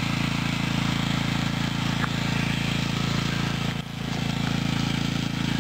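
A motor or engine running steadily with a low, even hum, dipping briefly about four seconds in.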